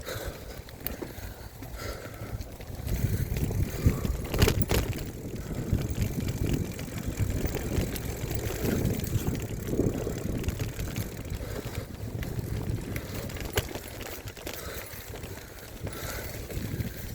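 Mountain bike ridden along a dirt trail, heard through the handlebar-mounted phone: a noisy low rumble and rattle from the tyres and frame that grows louder about three seconds in, with a couple of sharp knocks.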